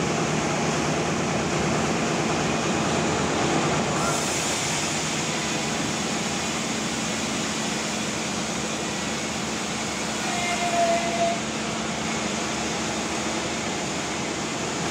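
Band sawmill running with a steady mechanical drone and hum. A short higher tone sounds briefly about ten seconds in.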